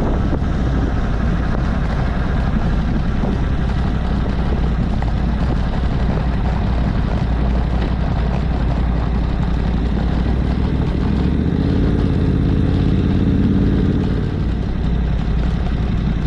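Yamaha Tenere 700's parallel-twin engine running at cruising speed with rushing wind noise, as heard riding along. A steadier humming engine note comes through for a couple of seconds past the middle.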